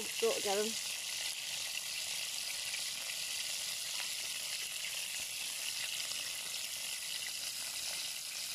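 Burger patty sizzling in oil in a ridged griddle pan: a steady, even hiss of frying.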